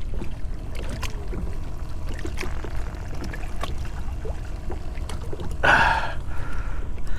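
Water lapping and trickling around a kayak, with a steady low rumble of wind on the microphone.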